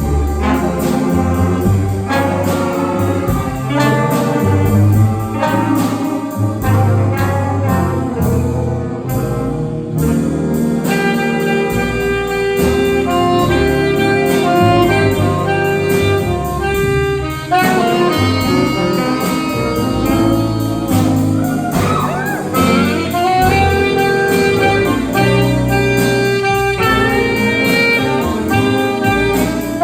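High school jazz band playing a big-band arrangement: sustained horn chords with saxophones and brass over bass and drums, a cymbal keeping a steady beat.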